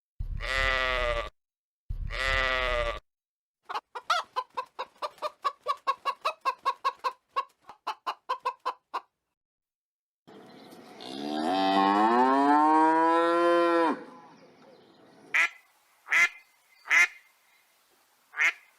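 A sequence of separate farm-fowl calls, geese and ducks among them. It begins with two long calls of about a second each, then a rapid run of short cackling notes at about four a second. One long call rises and falls, and several short quacks close it.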